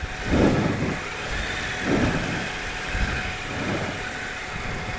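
Triumph Explorer 1215cc three-cylinder engine idling, with a rider's heavy breaths about every one and a half to two seconds over it: he is out of breath from a hard workout.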